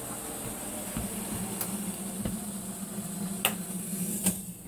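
Hot water poured from a kettle over ramen noodles in a bowl: a steady hiss with a few light clinks, stopping near the end.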